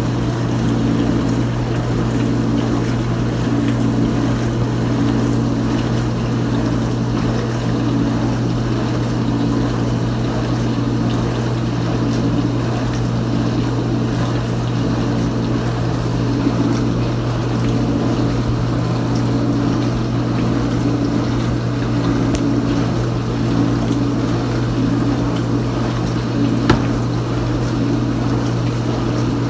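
Kenmore Ultra Wash dishwasher running mid-cycle: a steady motor hum with water spraying inside the tub, the spray sound swelling and fading every few seconds. There is one brief click near the end.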